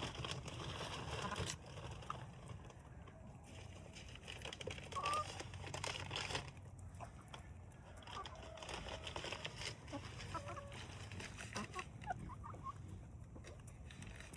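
Hens clucking and giving short high chirps while eating treats, with scattered sharp taps.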